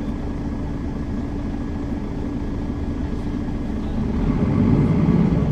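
Mercedes-Benz Citaro facelift city bus running, with a steady low engine drone. About four seconds in a louder low rumble swells up.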